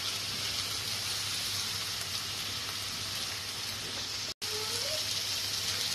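Oysters, spring onions and sliced onions sizzling steadily in a frying pan. The hiss cuts out completely for an instant about four seconds in.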